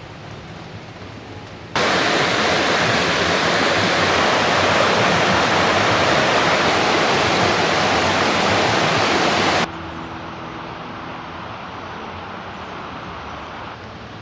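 A loud, steady rush of water that cuts in sharply about two seconds in and stops abruptly near ten seconds, leaving a quieter, steady hiss.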